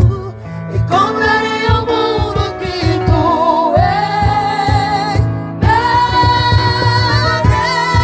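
Several singers performing a Portuguese-language gospel song over instrumental accompaniment. Long held notes waver in vibrato over a steady low beat.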